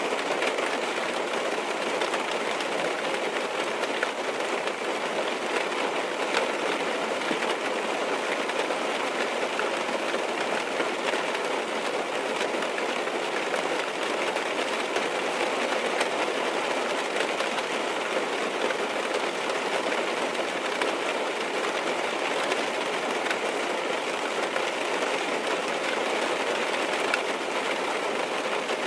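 Steady rain falling on a car, heard from inside the cabin: an even patter with faint scattered drop ticks.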